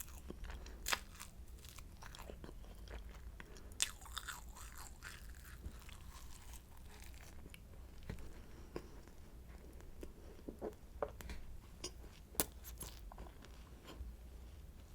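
Close-up eating of a croissant: flaky pastry crackling in sharp crunches as it is bitten and chewed, the loudest crackles about a second in, around four seconds and near twelve and a half seconds, with softer chewing between.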